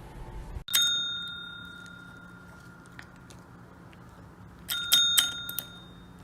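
A small metal bell is struck once with a clear ring that fades over about two seconds. About four seconds later it is rung again as a quick cluster of several strikes.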